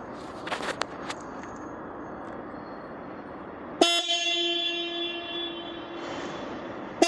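A motorcycle's existing horn is sounded, a steady single-pitched honk. It starts about four seconds in and is held for about three seconds, then is sounded again right at the end. A few sharp clicks come near the start.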